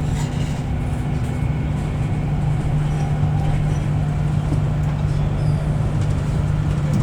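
Steady running noise heard inside the carriage of a Class 390 Pendolino electric train on the move: a constant low hum over an even rumble.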